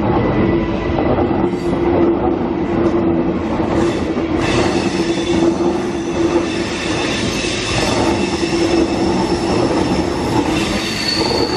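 A Queensland Rail New Generation Rollingstock electric train runs past close by: a steady hum over wheel and rail rumble. From about four seconds in, a high, several-toned wheel squeal comes in as it takes the curve, sharpening near the end.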